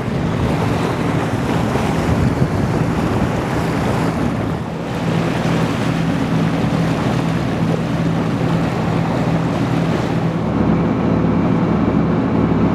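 A sailboat under way, its engine droning steadily under wind buffeting the microphone and water rushing past the hull.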